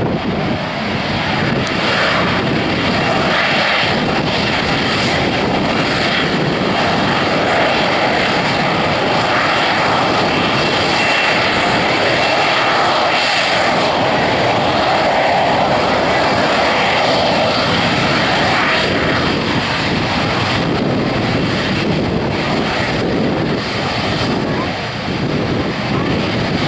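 Sea Harrier FA2's Rolls-Royce Pegasus vectored-thrust turbofan running loud and steady in flight, a dense jet roar that swells a little in the middle.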